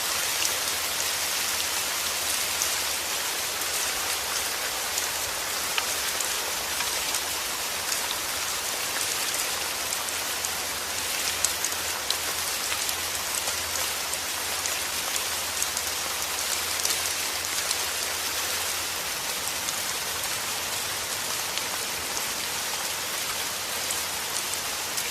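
Steady rain falling, an even hiss scattered with many small sharp drop ticks.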